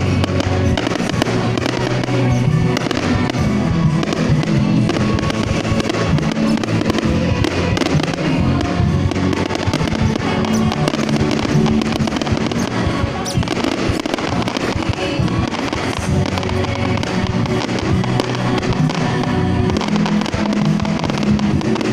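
Fireworks going off in a dense, continuous barrage of bangs and crackles, with loud music playing over it throughout.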